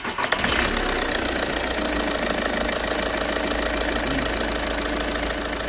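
VW Polo TDI diesel engine just started, uneven for about the first half second and then idling steadily.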